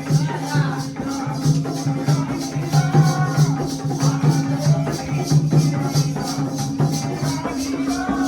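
Jakhadi folk music: small cymbals or rattles keep a fast, even beat of about four strokes a second over a steady low drone, with a wavering melody line above.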